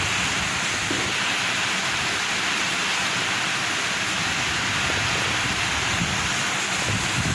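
Very heavy rain mixed with strong wind: a steady, dense hiss of rain pouring down.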